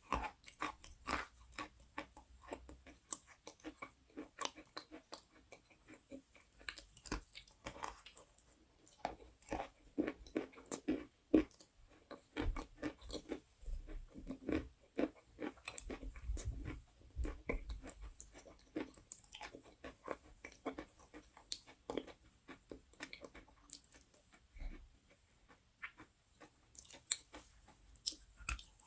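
Close-miked crunching of something brittle: a fast, irregular run of crisp crackles and snaps.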